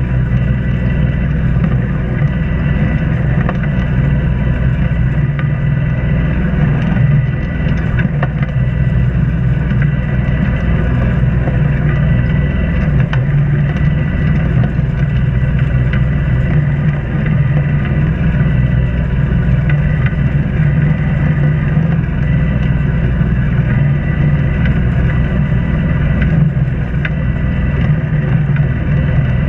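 A sailboat's inboard engine running steadily under way, a low, even drone with a faint steady whine above it.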